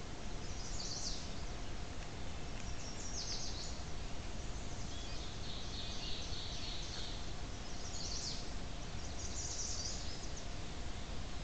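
Small birds chirping in about five short high bursts, over a steady hiss and a faint steady hum from a trail camera's microphone.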